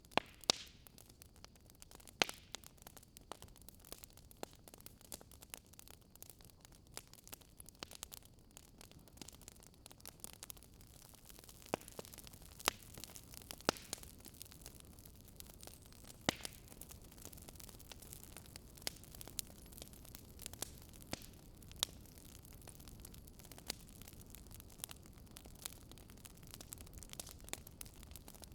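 Wood fire crackling in a fireplace: irregular sharp pops and snaps of varying strength over a faint hiss.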